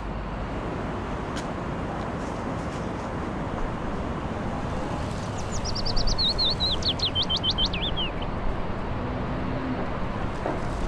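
Outdoor park ambience: a steady background hiss and rumble, with a songbird singing one quick run of notes that falls in pitch about halfway through.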